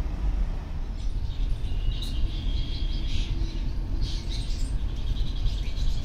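Small birds chirping, with many quick high calls and one short held whistle, over a steady low rumble.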